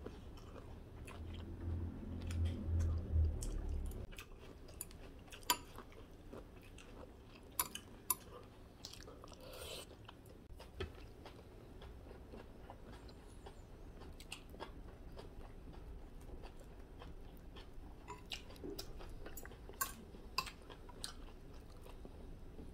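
A person chewing food, with scattered sharp clicks through it.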